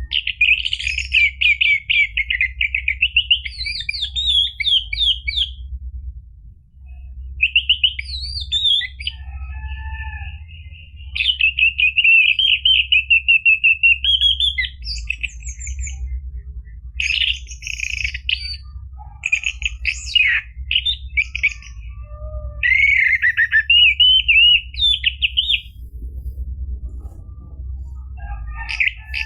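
Orange-headed thrush singing: a long run of rapid, varied warbling and chirping phrases, broken by a couple of short pauses, over a steady low hum.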